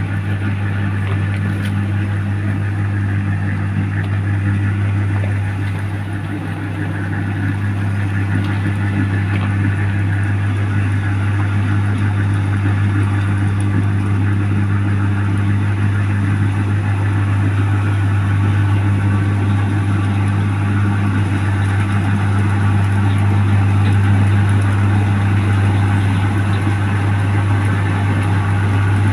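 Engine of a New Holland 1545 rice combine harvester running steadily with a strong, even low hum, dipping slightly about six seconds in.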